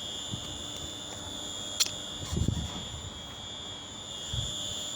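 A steady high-pitched whine held at one pitch, with a sharp click a little under two seconds in and a brief low rumble just after.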